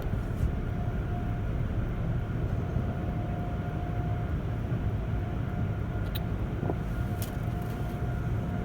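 Steady low rumble of automatic car wash tunnel machinery heard from inside a car riding the conveyor in neutral, with a faint steady whine. A couple of short sharp clicks come about six and seven seconds in.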